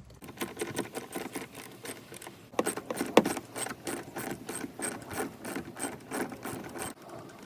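Ratchet wrench with a 10 mm socket clicking in a quick, even run as it backs out a seat mounting bolt, pausing briefly a couple of times.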